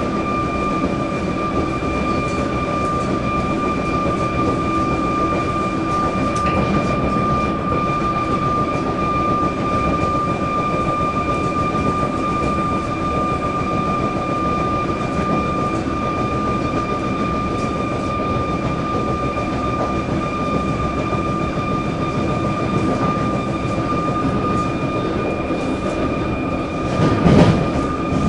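Electric suburban train running at speed: a steady rumble of the wheels on the rails, with a steady high whine over it. There is a brief, louder burst of noise near the end.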